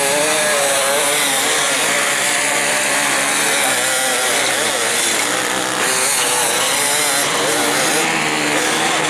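Enduro dirt bike engines revving hard, the pitch rising and falling with the throttle.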